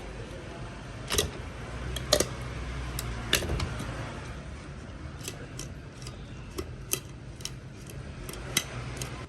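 Kitchen tools knocking and clinking: three louder sharp clinks in the first few seconds, then a run of lighter clicks, over a low steady hum.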